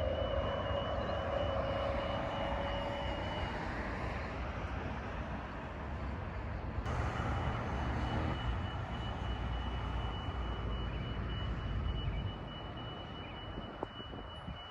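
Electric suburban train running at the station, its motor whine fading in the first few seconds over a steady low rumble and a steady high electronic tone. There is an abrupt cut about seven seconds in, after which the rumble and the high tone carry on.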